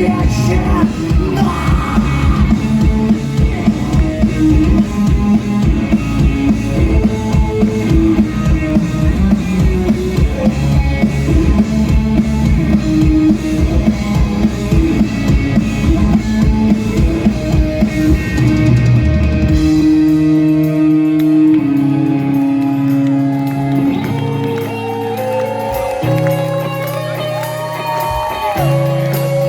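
Rock band playing live, an instrumental passage with electric guitar, bass and drum kit. About twenty seconds in the drums drop out, leaving held bass notes and a guitar playing bent notes.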